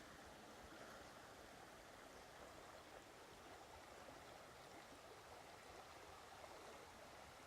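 Faint, steady rush of creek water flowing.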